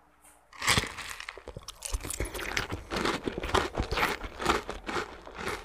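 Crunching bites and chewing of a raw, sour Señorita mango slice, starting about half a second in and continuing as a run of crisp crunches.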